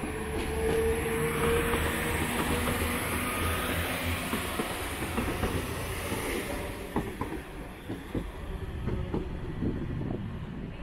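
A pair of Class 195 diesel multiple units departing: a droning engine tone that rises slightly over the first few seconds, fading as the train pulls away, followed by a series of wheel clicks over the rail joints.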